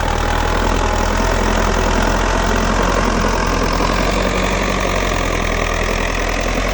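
Sonalika Tiger 55 hp tractor's diesel engine running steadily.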